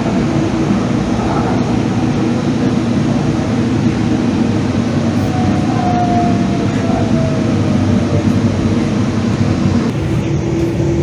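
Calgary Transit CTrain light-rail car running along the track: a steady rumble, with a faint whine that glides slightly down in pitch around the middle.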